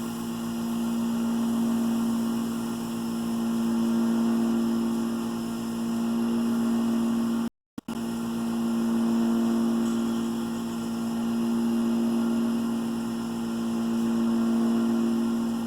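Wood lathe running with a steady motor hum, spinning a walnut handle, the level swelling and easing slowly every few seconds. The sound cuts out for a moment about halfway through.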